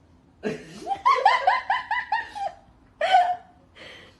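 A person laughing: a quick run of high-pitched repeated "ha" sounds, then one more short laugh.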